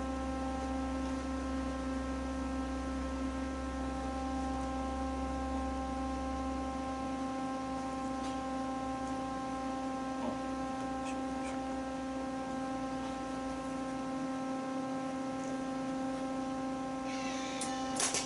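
Steady electrical hum made of several evenly spaced tones, with a few faint clicks along the way. A hiss comes in near the end.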